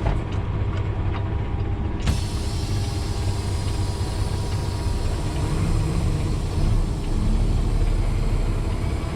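Semi truck's diesel engine running steadily with a low rumble, a sharp click about two seconds in followed by a jump in hiss, and the rumble swelling a little near the end.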